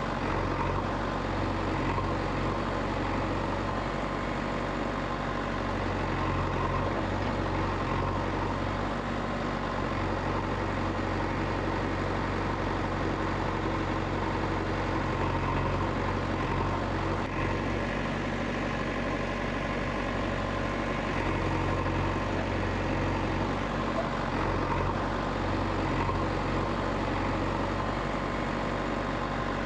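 An engine running steadily at idle, with a low, even hum that does not change.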